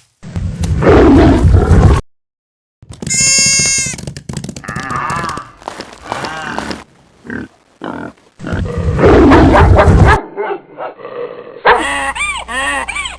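A string of different animal calls spliced one after another, each cut off abruptly with brief silences between. They run from rough, pig-like grunts to pitched, wavering calls.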